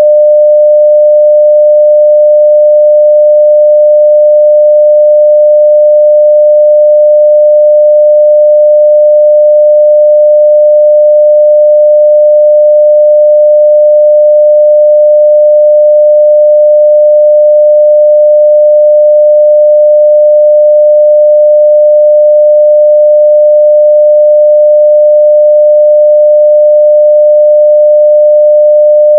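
Steady 600 Hz sine-wave test tone at full level, one pure unchanging pitch.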